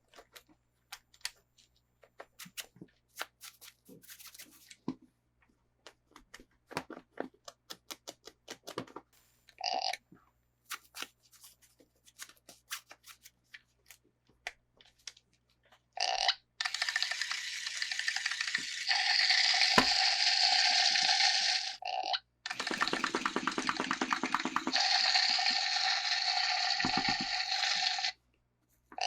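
Toy packaging being handled by hand: scattered light clicks and taps. Then, about halfway in, two long stretches of continuous scratchy rasping, with a brief break between them.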